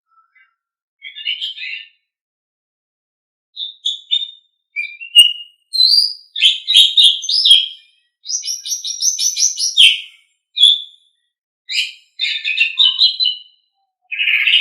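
Asian pied starling (jalak suren) singing: a string of short, varied phrases of rapid chattering, squeaky notes and brief whistles, separated by short pauses, with the densest run in the middle and one last loud phrase near the end.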